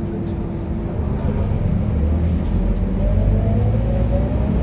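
Scania K230UB city bus's five-cylinder diesel engine pulling under acceleration, its pitch climbing steadily in the second half.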